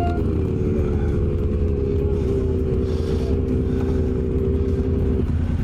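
Motorcycle engine running at a steady speed with heavy low rumble, its pitch holding level, cutting off abruptly near the end.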